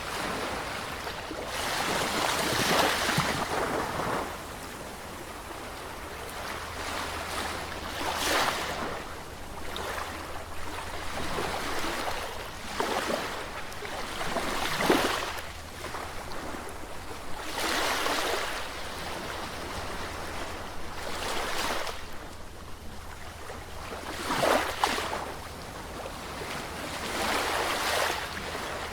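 Sea waves breaking and washing in, one surge after another every few seconds, each rising and falling away.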